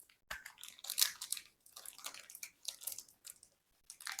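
Packaging being opened and handled by hand: a run of faint, irregular crinkles and small tearing crackles.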